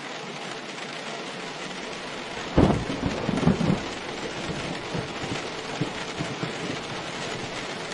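Steady heavy rain with a thunderclap about two and a half seconds in, rumbling for about a second and trailing off into fainter low rumbles.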